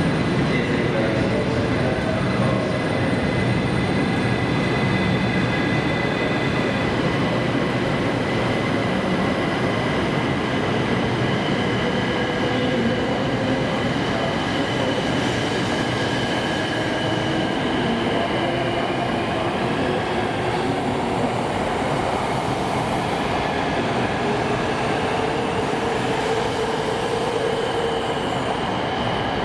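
A 700 series Shinkansen train at a station: a steady rumble with high whining tones held over it, and lower tones that drift slowly up and down in pitch.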